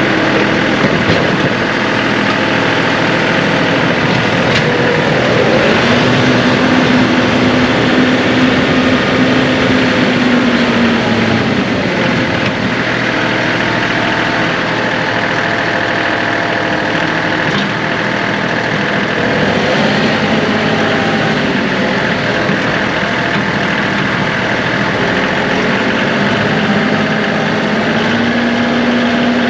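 John Deere 2038R compact tractor's three-cylinder diesel running steadily, with a whine that shifts in pitch now and then.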